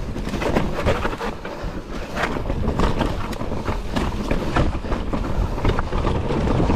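Mountain bike rolling fast over rough, rocky trail: a steady stream of rattles and knocks from the bike and tyres over a low rumble, with wind buffeting the microphone.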